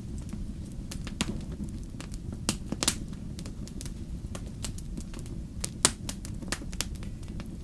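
Wood fire burning in a fireplace: a steady low rumble of flames with irregular sharp crackles and pops, two louder pops about three and six seconds in.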